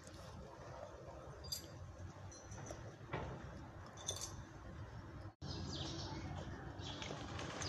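Outdoor ambience with a few short, high bird chirps over a steady low background noise. The sound drops out for a moment about five seconds in.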